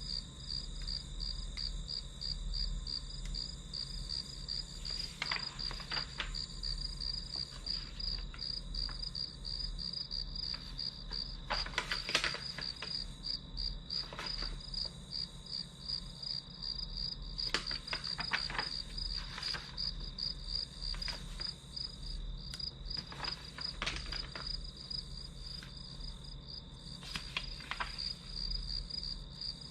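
Crickets chirping in a steady, rapid pulsing trill, with scattered soft taps and clicks now and then.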